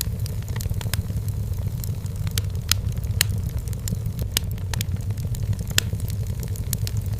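Wood fire burning in a fireplace, crackling with frequent irregular snaps and pops, a few of them sharper, over a steady low rumble of the flames.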